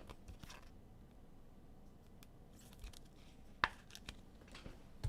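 Trading cards being handled: soft sliding and rustling of cards through the hands, with one sharp click about three and a half seconds in.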